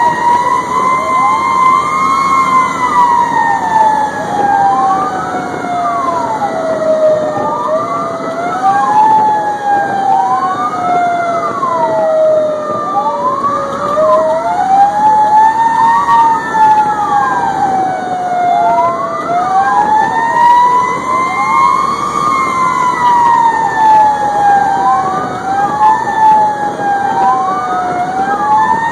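Fire engine sirens sounding together: a slow wail that climbs quickly and falls away slowly over several seconds, overlapped by a faster tone sweeping up and down about every second and a half.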